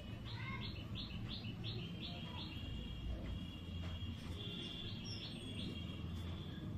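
Faint bird chirping: a quick run of about seven short high notes, followed by a steady high-pitched trill that carries on to the end.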